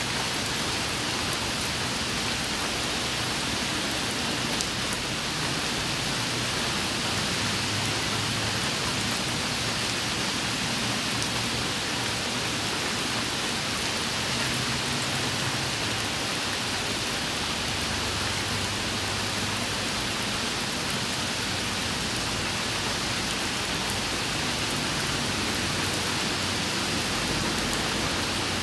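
Steady rain falling on wet pavement: an even, unbroken hiss of drops hitting the puddled surface.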